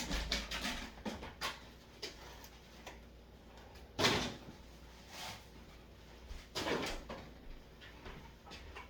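A non-stick skillet being washed in a bowl of water, giving a few clunks and knocks against the bowl. There are small clicks at first and two louder knocks, about four and about six and a half seconds in.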